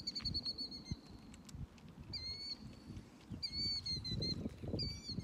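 A bird calling repeatedly in short, high chirping phrases about every second, the first a rapid trill, over a low rumbling noise.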